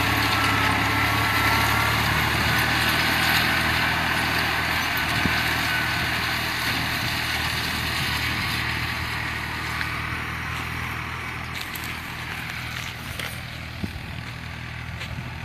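New Holland 49-horsepower, 2,700 cc tractor's diesel engine running steadily while pulling a six-disc plough, growing gradually quieter as it moves away.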